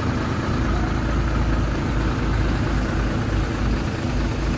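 Diesel engine of heavy earthmoving machinery running steadily at an even level.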